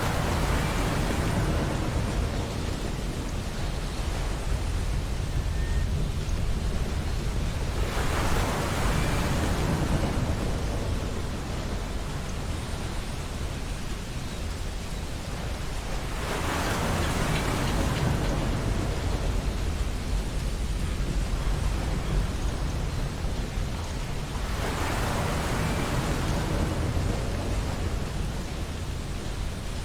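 Ocean surf breaking on a beach, a wave surging in and washing back about every eight seconds, four times over a steady bed of water noise.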